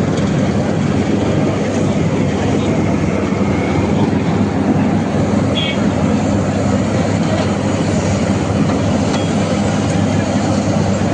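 Heavy diesel road-construction machinery running steadily: a loud, continuous engine drone with a low hum.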